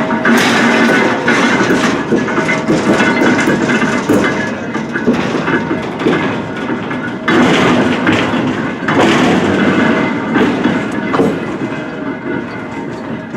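A train moving on the rails: a loud, steady rumble with irregular clanks and knocks, swelling twice in the second half.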